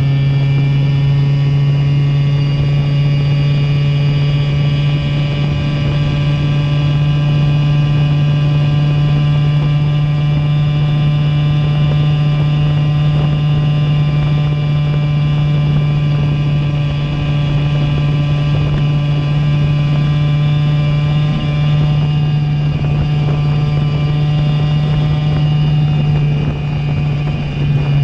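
Simson two-stroke moped engine breathing through a JW 85G+ expansion exhaust, running under way at steady revs with a nearly constant pitch.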